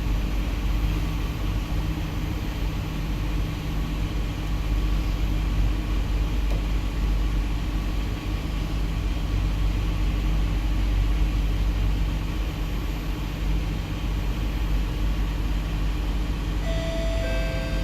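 Steady low hum and rumble inside the cabin of an SMRT C151B metro train standing at a station, with its onboard equipment such as air-conditioning running. The door-closing chime starts near the end.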